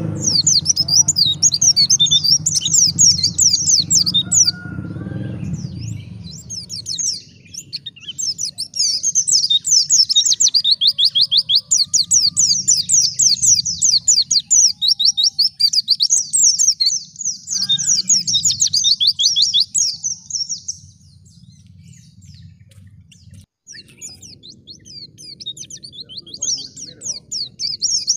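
White-eye (pleci) singing in long runs of fast, high chattering notes, with a lull of a few seconds near the end before the song picks up again.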